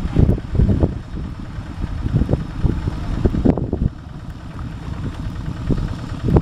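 A Kubota RD85 single-cylinder diesel on a two-wheel walking tractor running under load as it levels mud, with an uneven low chugging that eases for a moment about halfway through.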